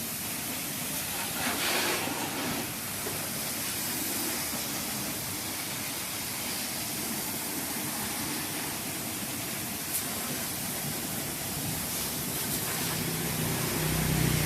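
Water sprayed at ordinary, low pressure over a car's engine bay to wet it before cleaning, a steady hiss. A low hum joins near the end.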